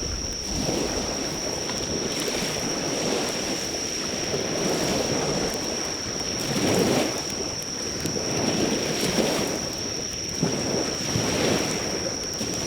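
Sea waves washing onto the shore in slow swells every two to three seconds, with insects calling in one steady high trill throughout. A driftwood campfire crackles faintly beneath them, a few light pops.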